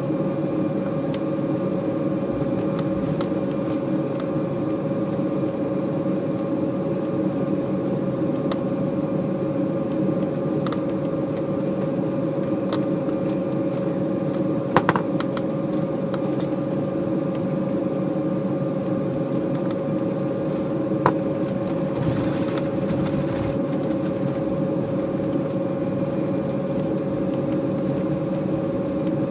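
Steady cabin drone inside an Embraer E190 airliner with its turbofan engines at idle just before takeoff: a constant hum with a steady whine on top. Two faint clicks come partway through.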